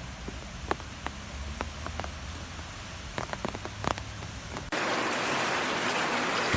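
Rain with scattered, distinct drops falling over a soft hiss. About three-quarters of the way through it switches abruptly to a louder, denser downpour.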